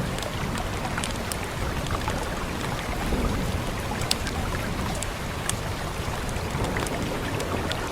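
Fireplace crackling, with scattered sharp pops and snaps, over a steady hiss of rain and a low rumble.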